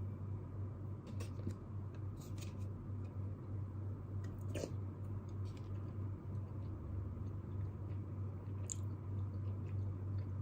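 Steady low room hum with a handful of scattered small clicks and taps from desk activity, a few seconds apart.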